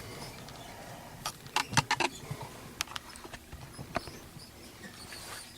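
A few scattered light clicks and knocks of hands working at an opened instant electric water heater, with a small cluster of them about two seconds in.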